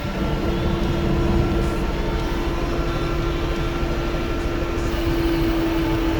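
Tractor engine running steadily with an even hum.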